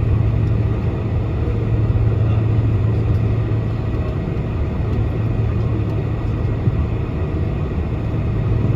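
Steady cabin noise inside a Boeing 747-400 as it taxis, with the engines at idle: an even rushing sound with a constant low hum.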